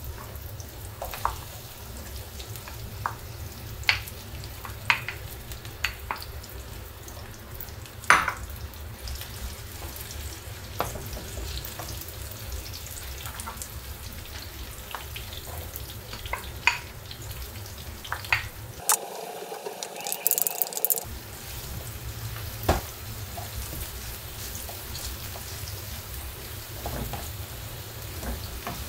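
Sliced onions sizzling in hot oil in a nonstick frying pan, stirred with a spatula that knocks and scrapes against the pan now and then.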